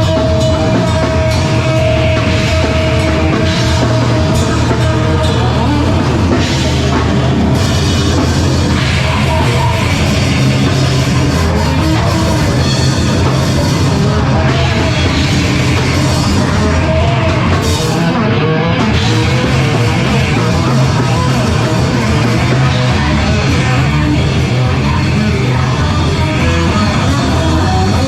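Live heavy rock band playing loudly, with drum kit and guitars in a dense, continuous wall of sound.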